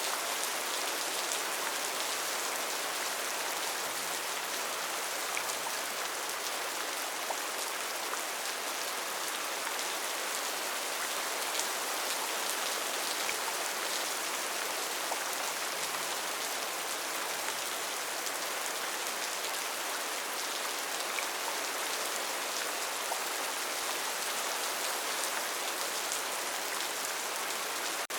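Steady, heavy rain falling on foliage, an even hiss with the patter of individual drops.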